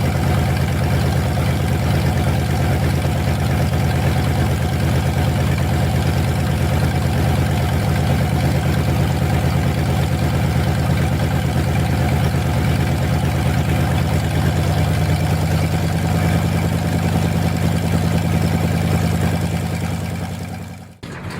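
Armstrong Siddeley nine-cylinder radial aero engine running steadily and driving its propeller, with a dense, rapid low firing pulse. The sound cuts off suddenly near the end.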